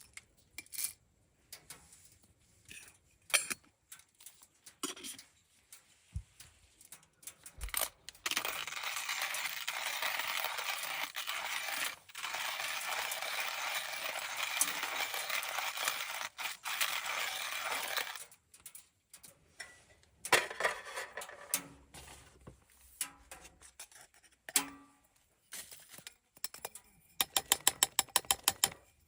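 Small metal camp gear being handled, with scattered clinks and knocks. A steady rushing hiss runs for about ten seconds in the middle, and a quick run of light clicks comes near the end.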